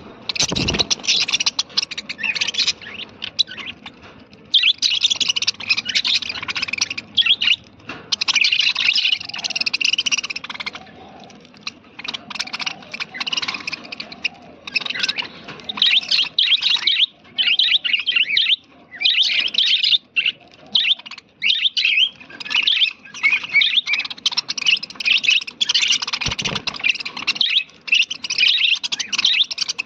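A colony of budgerigars chattering and warbling continuously, many birds at once, in overlapping bursts of high chirps. There is a brief low thud about half a second in and again near the end.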